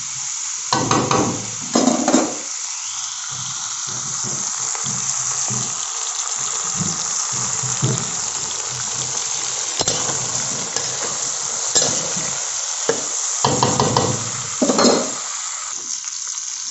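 Broiler chicken feet, sliced onions and green chillies frying in hot oil in a wok, sizzling steadily. A metal spatula scrapes and stirs them in a few louder strokes, about a second in and again near the end.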